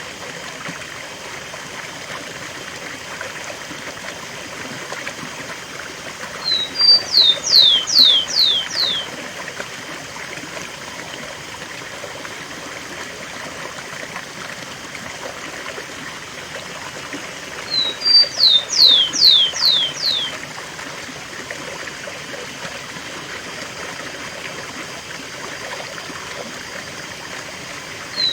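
Rufous-collared sparrow (tico-tico) singing two song phrases, about eleven seconds apart, over the steady rush of a waterfall. Each phrase is two short high notes followed by about five quick, descending slurred whistles, the song type breeders call 'cemitério'.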